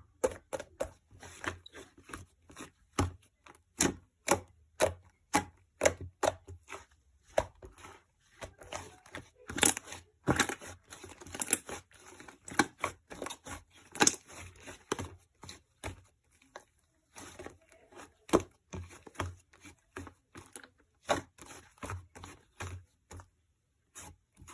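An irregular series of sharp taps and clicks, with some rustling, denser around the middle and pausing briefly near the end.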